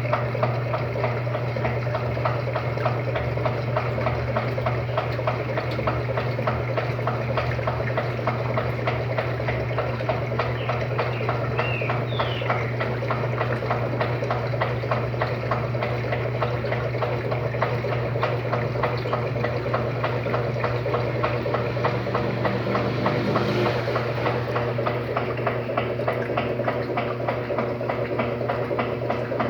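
Electrolux LTD13 washing machine running its first rinse: water churning and sloshing in the tub over a steady motor hum.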